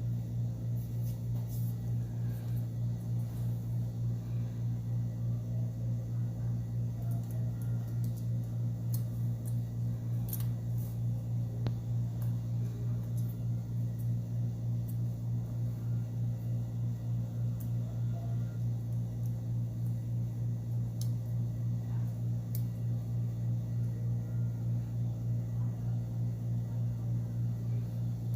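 Steady low mechanical hum with a slight regular pulse, and faint scattered small clicks over it.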